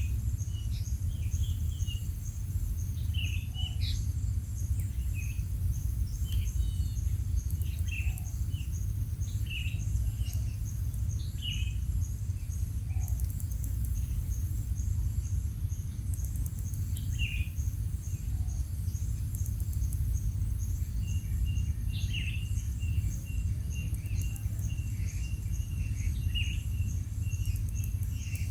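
Short bird chirps every second or so, over steady insect trilling and a constant low rumble. From about two thirds of the way in, a quick run of repeated chirps at one pitch joins in.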